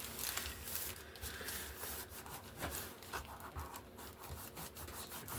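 Irregular scratchy rubbing strokes on a paper-covered board book page, several short strokes a second.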